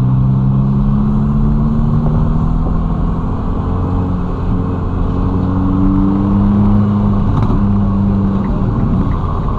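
Ferrari Roma's twin-turbo V8 running at low revs under light throttle, its pitch rising gently for several seconds and then easing off. A brief click sounds about three-quarters of the way through.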